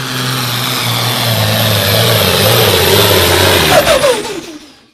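Limited Pro Stock pulling tractor's diesel engine running hard under a loud rushing exhaust. About four seconds in, its pitch slides down and the sound falls away as it comes off the throttle.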